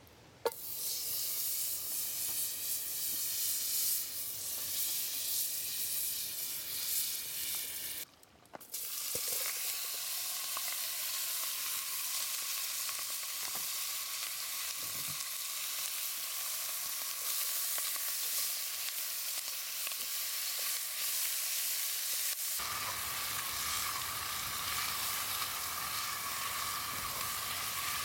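Food frying in a hot camp oven, a steady sizzle that breaks off briefly about a third of the way in.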